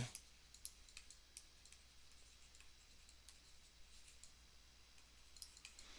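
Near silence with a few faint, scattered clicks, clustered near the end.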